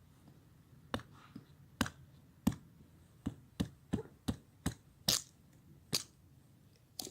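Wood fire crackling, with about a dozen sharp pops at irregular spacing.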